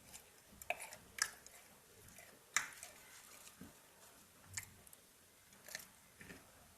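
Close-up chewing of pan-fried potatoes: a string of separate crisp crunches, roughly one a second, the loudest about two and a half seconds in.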